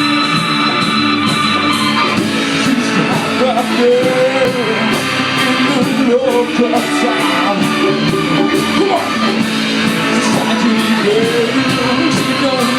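Live rock band playing a song, with electric guitar and a steady drum beat, and a male voice singing over it from about two seconds in.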